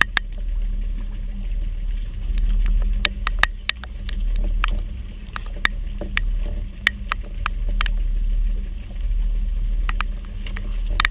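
Low, steady rumble of a boat's engine, with scattered sharp ticks and knocks throughout.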